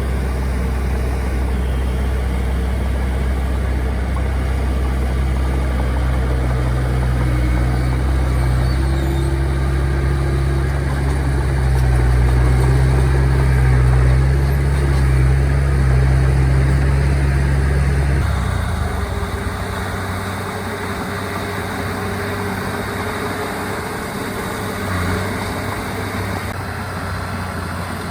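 Heavy diesel engines of earthmoving machines running: a loud, low engine note until about two-thirds of the way through, when it falls away and a quieter engine carries on.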